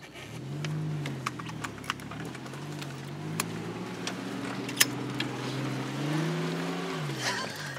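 Mitsubishi Pajero 4WD engine heard from inside the cabin, working under throttle on a steep off-road climb, its revs rising about a second in and again near the end before dropping away. Scattered sharp clicks and knocks from the vehicle run through it.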